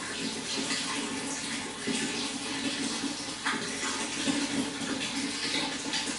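Running water flowing steadily, a continuous rushing and splashing with small irregular splashes.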